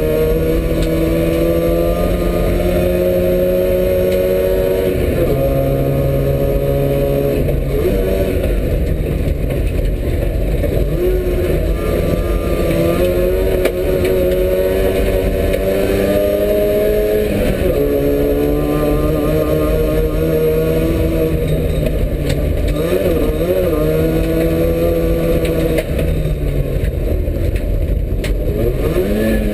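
A rally Trabant 601's two-stroke engine pulls hard through a lap, heard on board. Its pitch climbs through the revs and drops back several times at gear changes and corners.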